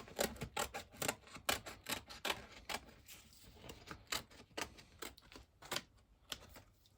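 Scissors snipping through thin cereal-box cardboard: a run of sharp, irregular clicks about two or three a second, thinning out in the second half.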